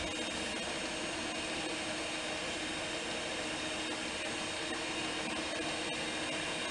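A kitchen appliance motor running steadily, a constant hum with a whooshing air-like hiss.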